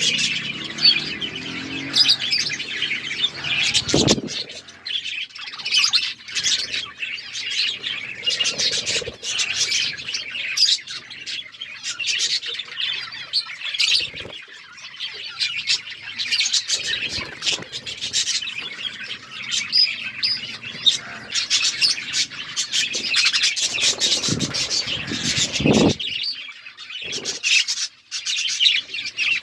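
Several budgerigars chirping and chattering continuously in quick, overlapping high calls, with a few short knocks or thumps.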